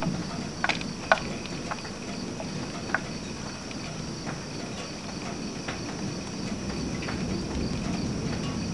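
Crickets trilling steadily in the background, with a few sharp ticks in the first three seconds over a low, even noise that swells slightly toward the end.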